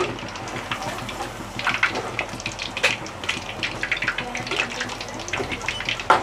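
Egg-coated chicken leg pieces frying in hot oil over a low flame: a steady sizzle with irregular crackles and pops.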